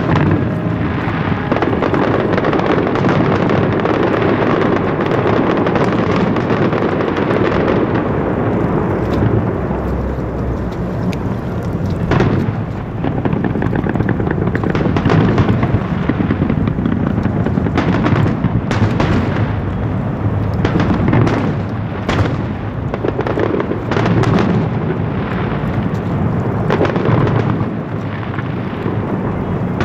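Fireworks show: a dense, continuous barrage of aerial shells exploding and crackling, with sharper individual bangs standing out in the second half.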